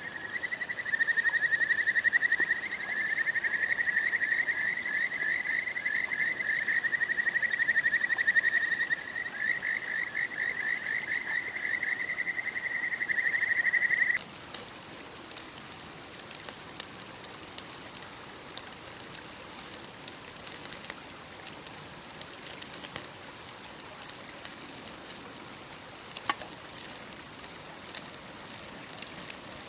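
A frog's fast, pulsing trill, high and continuous, which cuts off abruptly about halfway through. After that there is a steady hiss with scattered light ticks and crackles.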